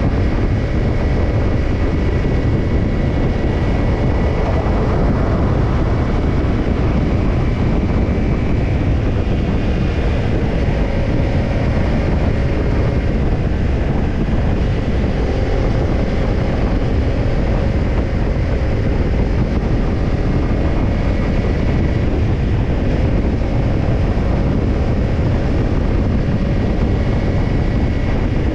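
Kawasaki Ninja 250's parallel-twin engine running through a BEET Japan NASSERT Evolution Type II titanium slip-on muffler, holding a fairly steady engine speed as the bike rides along, with wind rush over the microphone.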